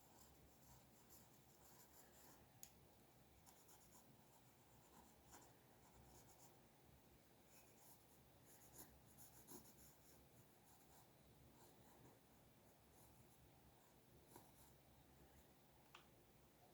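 Faint scratching of drawing strokes on paper, in short irregular bursts, with a few light taps.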